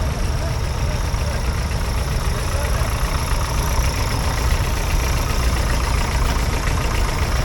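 Vintage farm tractor engine running steadily at low revs, a loud, even low-pitched rumble.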